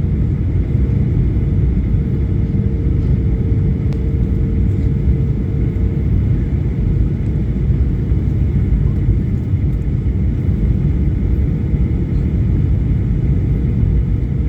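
Steady low rumble of a moving vehicle heard from inside its cabin, with a faint steady hum that stops about six seconds in.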